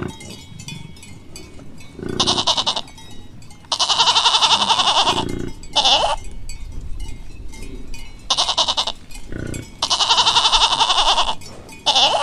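Goat bleating in about six separate calls with pauses between, two of them long and drawn out, about four and ten seconds in.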